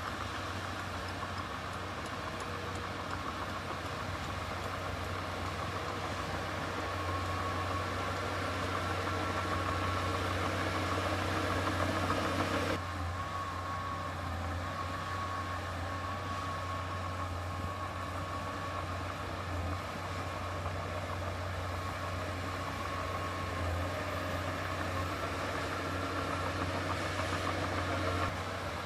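Heavy diesel engine of earthmoving machinery running steadily, a strong low hum with a faint whine above it. A little under halfway through, the sound drops abruptly in level.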